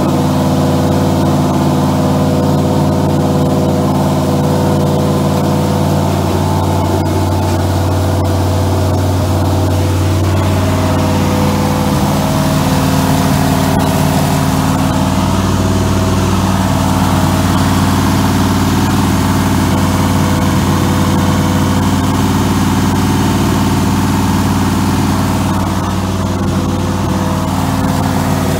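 1963 Oldsmobile Jetfire's turbocharged aluminum 215 V8 running steadily on an engine stand during its camshaft break-in run. Its note changes slightly about eleven seconds in.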